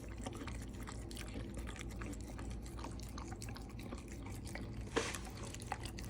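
A dog licking and lapping yogurt from a bowl: a run of small wet smacking clicks, with one louder click about five seconds in.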